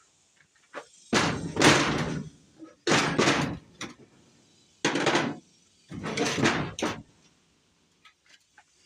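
Four loud bursts of knocking and scraping, each lasting under a second, from metal engine parts being handled and set down on a bench.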